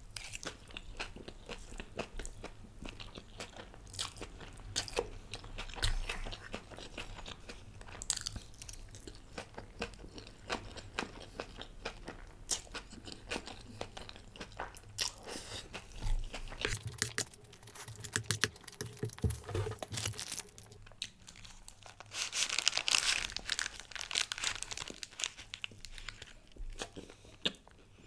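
Close-miked chewing of chicken schezwan noodles: a steady string of small wet clicks and mouth noises, louder for a couple of seconds about two-thirds of the way through.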